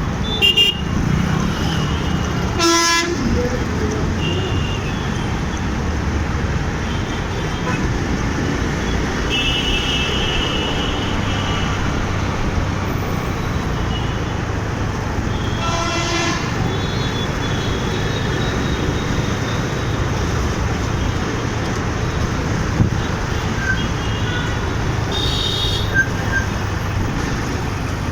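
Continuous road traffic and engine noise heard from a moving motorcycle in dense city traffic, with vehicle horns honking about four times.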